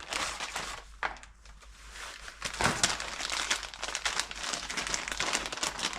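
Packaging of a new piston ring set crinkling as it is opened and handled, sparse at first and busier from about halfway through.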